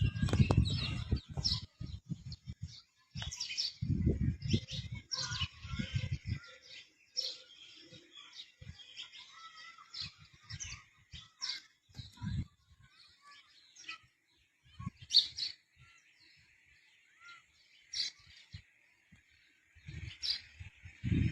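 Small birds chirping and calling in short, scattered notes, with several brief low rumbling bursts in between, the longest a few seconds in.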